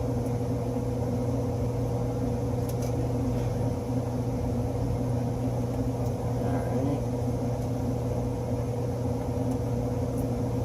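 Steady machine hum holding a few constant tones from running HVAC equipment, with a couple of faint clicks of wiring being handled.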